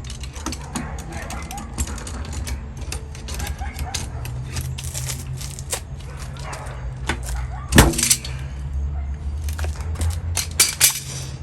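Paintless dent repair glue pulls on a car body line: a sharp crack about eight seconds in and a quick pair of cracks near the end as the glued tabs are yanked and pop off the panel. A steady low hum and scattered small clicks run underneath.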